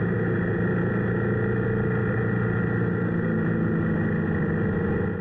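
Motorcycle engine running at a steady speed, a constant drone with no change in pitch.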